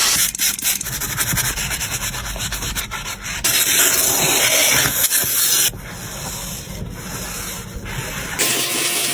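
Scrubbing and rubbing noise from cleaning a car's surfaces. It changes abruptly three times as short clips are cut together.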